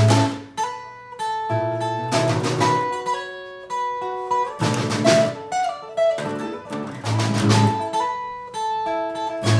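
Instrumental music: a guitar picks single notes, with a full strummed chord about every two and a half seconds.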